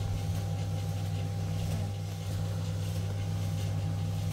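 A steady, low engine hum running evenly without change.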